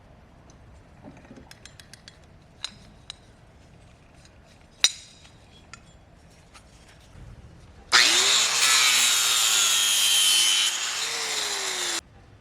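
A power tool working against metal, starting abruptly about two thirds of the way in, its pitch dipping and rising under load, then stopping suddenly near the end. Before it there are scattered light clicks and knocks.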